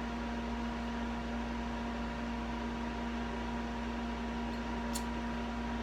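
Steady background hum of room noise with constant low tones, and one faint click about five seconds in.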